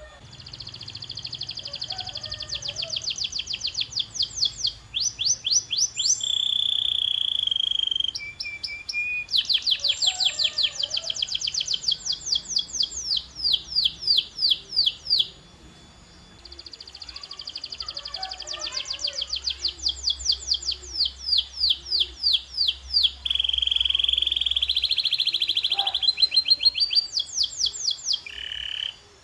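Canary singing a long song of fast trills, each a run of rapidly repeated high notes, broken by a few steady whistled notes and short pauses.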